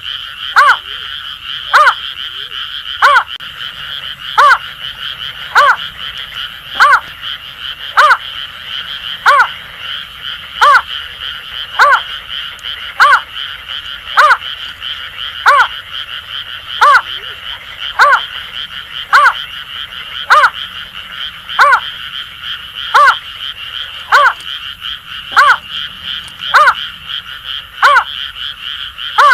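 Greater painted-snipe giving a steady series of short, low hoots, one about every 1.2 seconds, over a continuous high, rapid pulsing chorus of Asian grass frogs.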